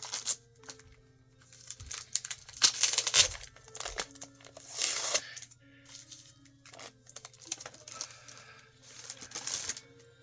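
Plastic packaging around comic books rustling in several bursts as the comics are handled, over faint background music.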